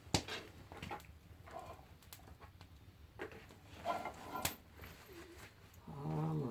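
A few sharp clicks and knocks, spaced about a second or more apart, with a short low hum from a man's voice near the end.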